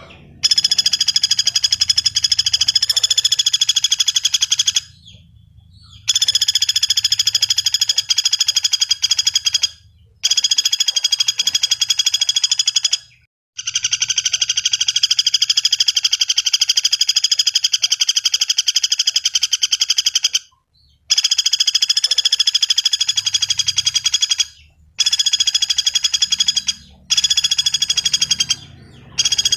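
Pelatuk bawang woodpecker calling: long, very rapid, high-pitched trilling rattles lasting several seconds each, broken by short pauses about every 3 to 7 seconds.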